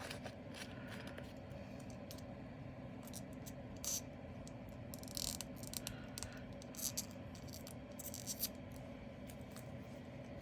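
Small resin diamond-painting drills and their little plastic bags being handled: faint scattered clicks and light rattles, with a few short plastic rustles, over a steady low hum.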